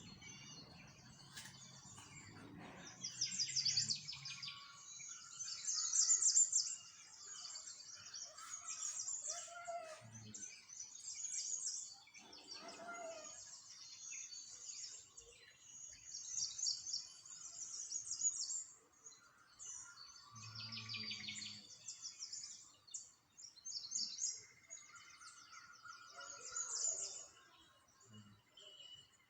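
Small songbirds chirping and twittering in quick, overlapping series, with a few brief low sounds beneath.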